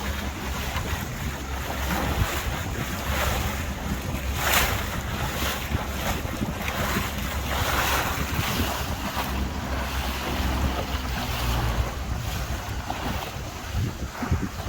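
Tour boat under way: its engine running steadily beneath wind buffeting the microphone and water rushing past the hull, with louder splashes twice near the middle.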